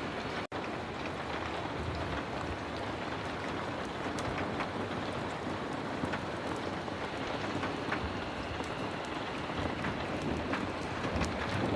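Heavy rain falling steadily, a dense even hiss with scattered sharp ticks through it. The sound cuts out for an instant about half a second in.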